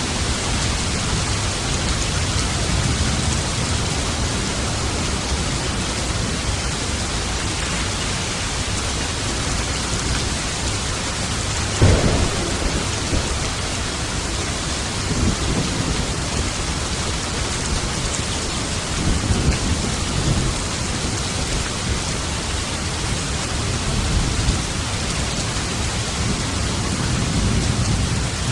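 Steady heavy rain in a thunderstorm, with a sharp thunderclap about twelve seconds in and rolling thunder rumbles several times after it.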